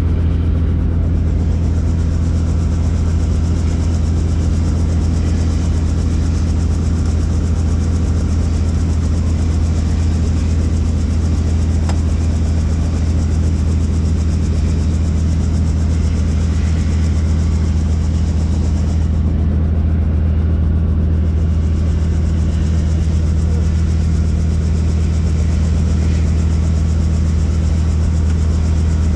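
Helicopter running steadily: a loud, unchanging deep drone of rotor and engine.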